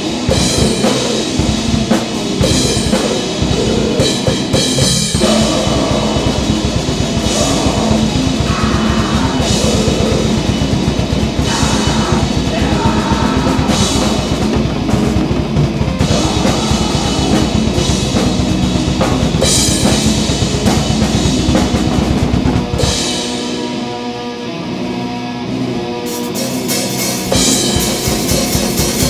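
Grindcore noise band playing loud and dense, with pounding drum kit and distorted guitar. About three-quarters of the way through, the bass and low drums drop out for a few seconds, leaving a thinner guitar part, and then the full band comes back in.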